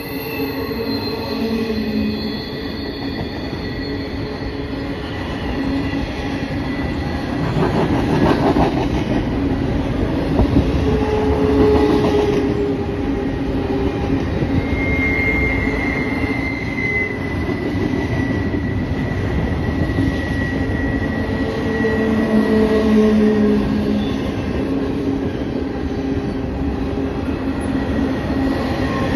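Double-stack container freight cars rolling past on steel rails: a steady rumble of wheels on track, with wheels squealing in held tones that come and go, a high squeal strongest from about fifteen to twenty seconds in.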